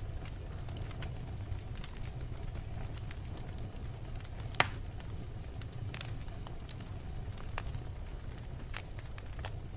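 Wood logs burning in a fireplace: a steady low rumble of flame with scattered crackles, and one loud sharp pop about four and a half seconds in.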